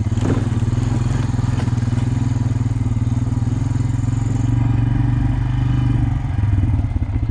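Honda Rancher ES 4x4 ATV's single-cylinder engine running under load as it drives over brush on a snowy trail, getting a little louder past the middle. A couple of sharp cracks in the first two seconds.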